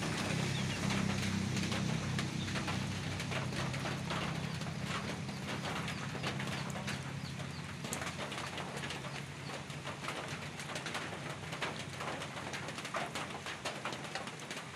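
Birds calling, with a low steady call through roughly the first half, over scattered light clicks and rustling.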